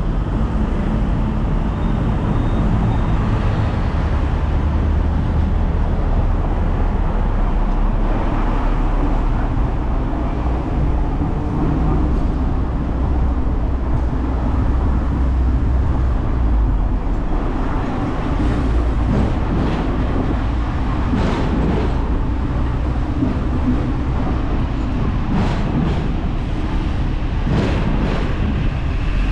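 Hong Kong double-decker tram running along its rails: a steady low rumble of motor and wheels, with several sharp clicks and knocks in the second half.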